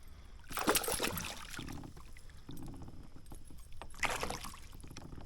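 Water splashing as a hooked largemouth-type bass thrashes at the surface beside the kayak, two loud splashes about half a second in and about four seconds in, with fine rapid ticking between them.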